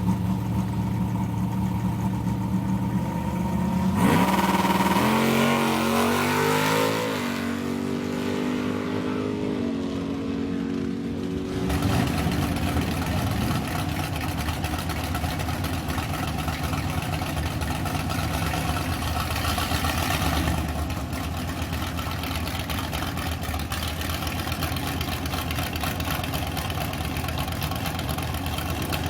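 Drag car engine idling, then launching about four seconds in, its pitch climbing in steps as it accelerates away down the strip. From about twelve seconds, another engine runs steadily.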